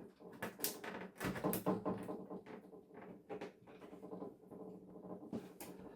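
Scattered light clicks and knocks of hands working at a broken television's parts, trying to get them apart.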